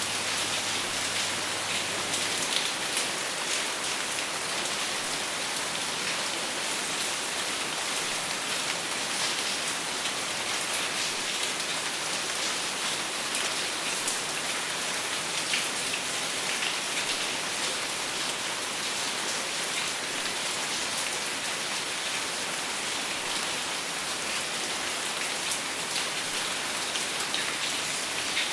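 Steady rain falling on a surface, without thunder: a dense, even hiss with many individual drops ticking.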